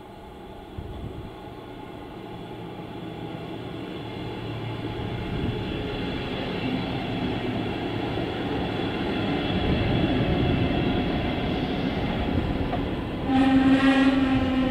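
Electric regional train of double-deck coaches passing at speed, its rail and running noise growing louder as it approaches. Near the end a sudden steady tone with several overtones sets in over the rumble and carries on.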